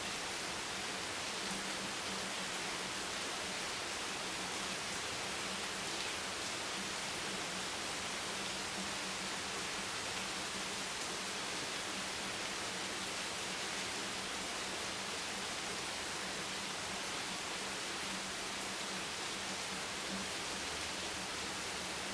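Steady rain ambience: an even, unbroken hiss with no distinct drops standing out, and a faint low hum beneath it.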